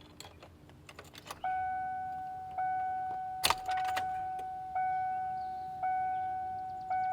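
Keys jangling and clicking in the 2002 Ford E450's ignition, then the dashboard warning chime dinging steadily about once a second, each ding fading before the next. A single sharp click comes about three and a half seconds in.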